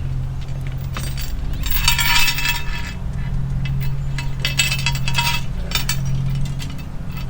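Metal clinking and rattling from the tripod chain and hook as a cast-iron camp oven is raised higher over the fire, in two main bursts of clinks with a few single clicks between. A steady low hum runs underneath.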